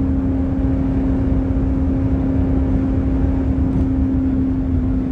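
Jeep Grand Cherokee Trackhawk's supercharged 6.2-litre V8 running at a steady speed. It makes a constant drone that holds one pitch, over a low road rumble.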